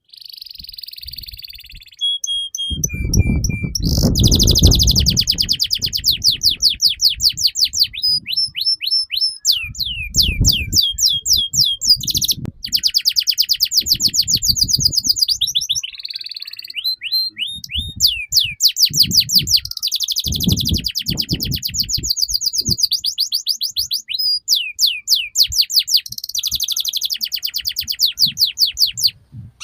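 Domestic canary singing a long, continuous song of rapid trills, rolling rattles and repeated whistled notes, changing phrase every second or two. A low rumble sounds underneath in a few places.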